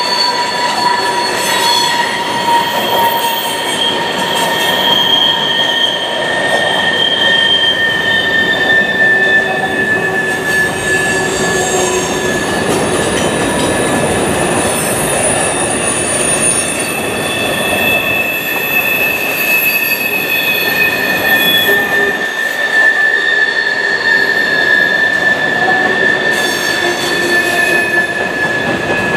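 Freight train cars rolling past, their steel wheels squealing against the rail: several long, high squealing tones that drift slowly in pitch over the steady rumble of the wheels.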